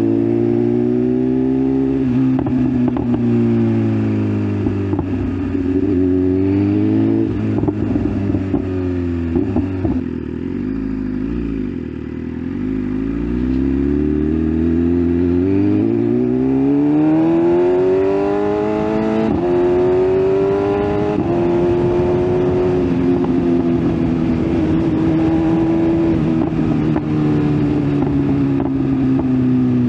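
BMW S1000RR inline-four engine on the move. Its pitch falls as the bike slows about ten seconds in, then it pulls up through the gears, with a step in pitch at each of two upshifts around two-thirds of the way through, and it settles into a steady cruise.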